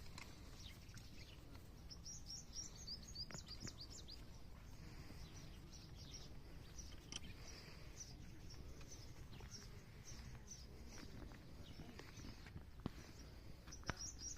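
Faint, rapid high-pitched chirping of small birds in repeated runs over a low steady background rumble, with a few sharp clicks.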